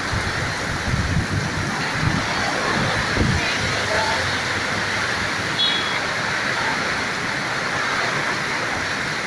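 Strong wind blowing as a steady rushing noise, with gusts buffeting the microphone as low rumbles in the first few seconds.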